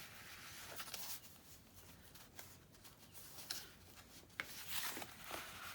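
Faint rustling and sliding of paper as handmade journal cards are tucked into paper belly bands and the journal's pages are handled, with a few light taps.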